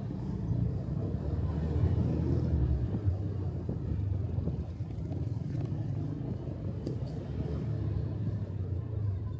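Motorcycle engine running on the move, its low hum rising and falling a little with the throttle, over wind and road noise.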